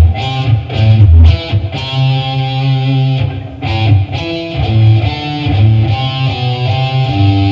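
Guitar playing a single-note riff picked on the low strings, one note after another, each left ringing.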